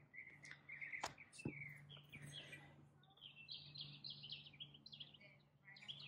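Near silence with faint birds chirping in the background, and two small clicks about a second in.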